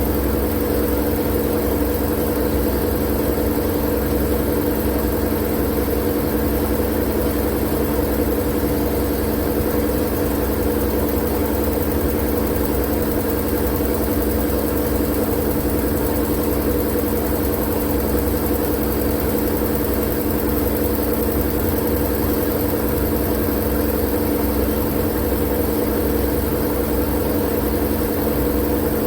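Steady, unchanging sleep-noise drone: a constant low hum with a hiss over it, with no pauses or variations.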